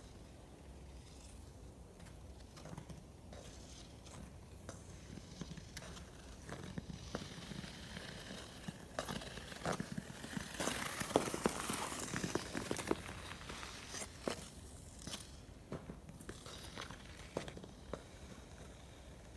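Crunching and clicking on the ice of a frozen stream, scattered at first, then thickening into a denser spell of crackling and scraping around the middle before thinning out again.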